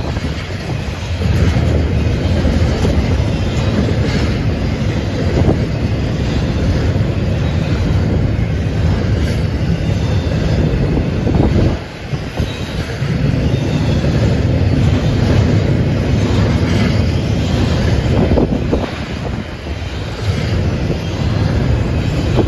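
Norfolk Southern freight train rolling past, its cars and wheels making a continuous heavy rumble on the rails, with wind buffeting the microphone.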